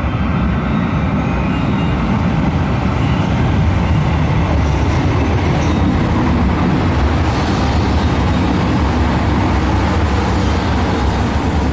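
JR Shikoku 2700 series diesel railcar running, a steady low engine drone with rail and running noise that grows louder about seven seconds in.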